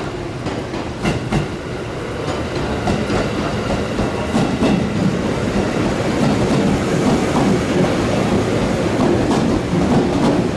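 JR 211 series six-car electric train rolling slowly into the platform, wheels clicking over rail joints, growing louder from about two seconds in as the cars come alongside.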